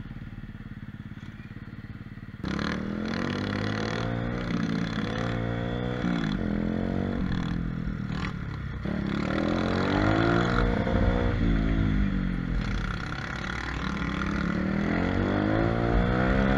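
125cc mini moto (pit bike) engine running low for about two seconds, then opening up and being ridden, its pitch climbing and falling again several times as the throttle is worked.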